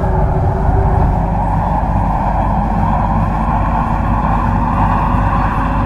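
MTR Kwun Tong line C-Train running between stations: a steady rumble of wheels and running gear, with a faint motor whine that slowly rises in pitch as the train picks up speed. A steady tone fades out about a second in.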